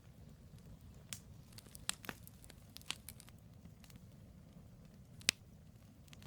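Firewood burning in a campfire: scattered sharp crackles and pops, the loudest about five seconds in, over a low steady rumble.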